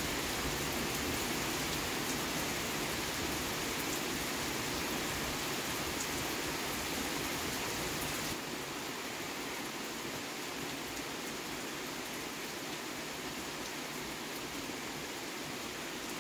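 Steady rain falling in a thunderstorm, an even hiss that drops a little in level about eight seconds in.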